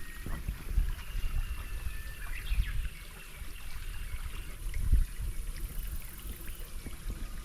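Water lapping and trickling at the edge of a tidal flat, with an uneven low rumble of wind on the microphone and a few faint high chirps in the first few seconds.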